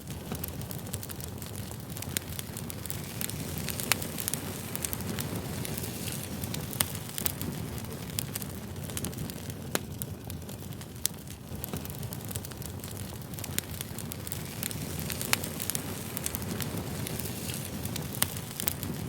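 Campfire burning: a steady low rush of flames with frequent sharp crackles and pops from the wood.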